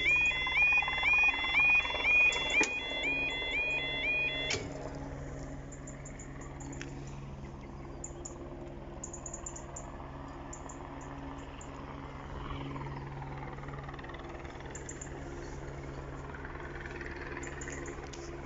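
Level crossing yodel alarm warbling in a fast repeating rising two-tone pattern, cutting off suddenly about four and a half seconds in, as it does once the barriers are down. After that a steady low hum and faint bird chirps.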